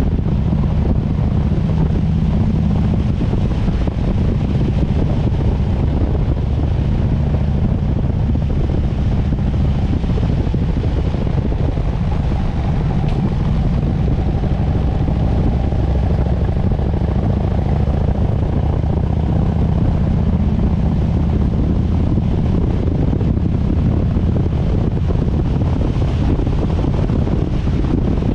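Harley-Davidson Sportster S V-twin engine running steadily while riding at road speed, with wind rushing over the microphone.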